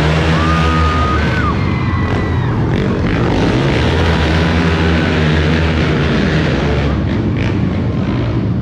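Monster truck engine running loudly with a steady deep rumble, with music playing over it.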